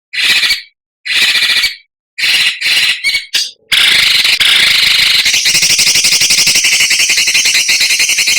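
Songbird giving harsh, rasping scold calls: several short bursts with pauses, then from about four seconds in one long, fast, rattling rasp.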